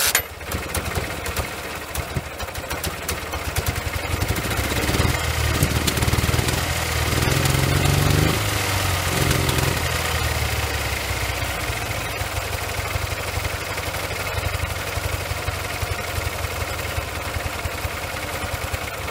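Ural motorcycle's flat-twin engine, assembled from worn, defective parts, running on its worst (left) cylinder; it is revved up between about five and nine seconds in, then settles back to a steadier run. The owner says gas is blowing out from under that cylinder's spark plug.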